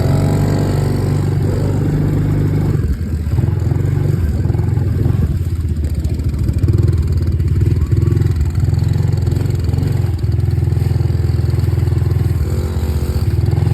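Dirt bike engine running steadily while riding, its note dipping briefly about three seconds in.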